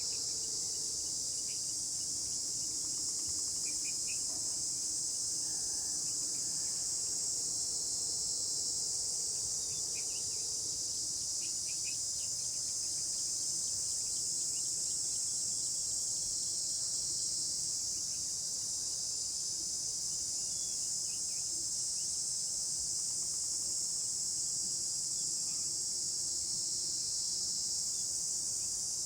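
Steady, high-pitched chorus of insects such as crickets, with a few faint short chirps scattered through it.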